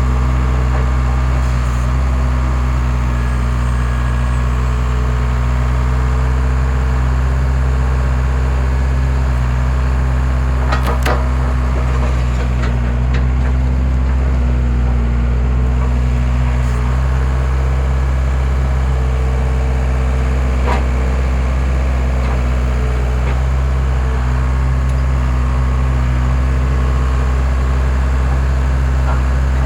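Skid steer engine running steadily under load, powering a hydraulic log splitter, with a few sharp cracks as logs split, about a third of the way in and again past two-thirds.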